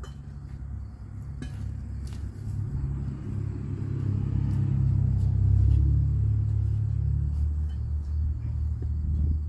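A motor vehicle passing by, its low rumble swelling to a peak a little past halfway and then fading. A few light clicks come near the start.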